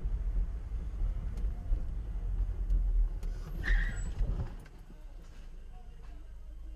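Low, steady rumble of a car driving, heard through a dashcam, easing off about four and a half seconds in.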